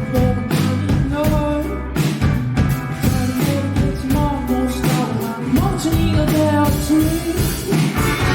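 A rock band playing live, with drum kit, bass and electric guitar, to a steady beat and a melodic guitar line. A cymbal wash swells in near the end.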